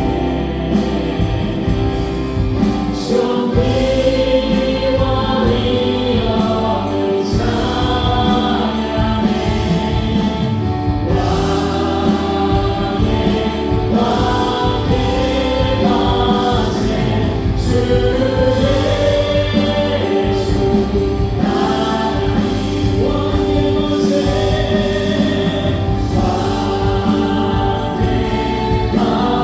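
Live contemporary Korean worship song: a praise team's vocalists sing sustained, gliding phrases over a full band of keyboards, synthesizer, electric guitar, bass guitar and drums, steady without a break.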